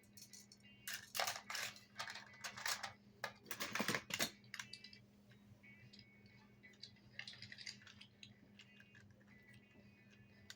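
Plastic toy construction vehicles being handled: a quick run of clicks and rattles for a few seconds, then a few lighter clicks.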